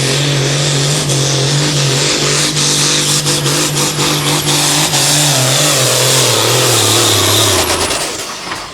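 Turbocharged diesel engine of a Case hot farm pulling tractor at full throttle, dragging the pulling sled down the track. The engine note holds steady, then sags lower as the load builds, and the throttle is cut about eight seconds in, leaving a high turbo whine winding down.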